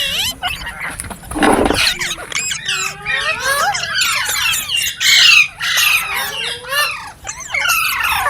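Pet green parrot chirping and squawking in a rapid run of rising and falling calls, with a harsher, noisier squawk about a second and a half in.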